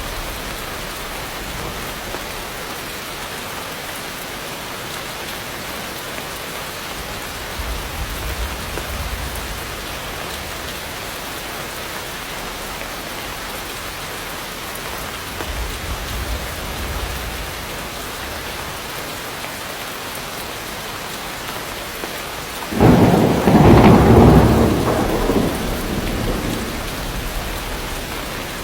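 Heavy rain falling steadily, with a loud clap of thunder near the end that rumbles away over a few seconds.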